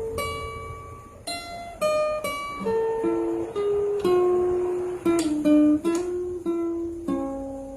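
Acoustic guitar picking a slow melody of single notes, each struck note ringing and fading before the next. There is no singing.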